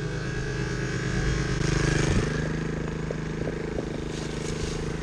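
Small single-cylinder pit bike engine running steadily at idle, getting louder for a moment about two seconds in.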